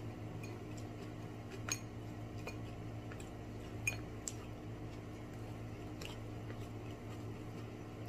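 A person chewing food close to the microphone, with a few sharp clicks, the loudest about two and four seconds in, over a steady low hum.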